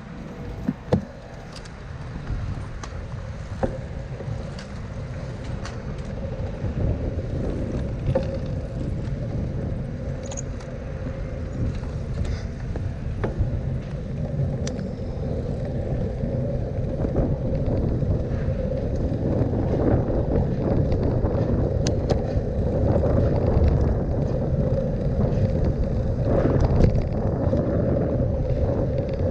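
Riding a bicycle on city streets: a continuous low rumble and rattle with a steady hum and scattered sharp clicks, growing gradually louder.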